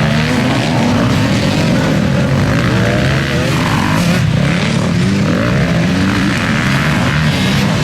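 Several motocross bikes racing, their engines revving up and down as they accelerate and shift, overlapping into a loud, continuous noise.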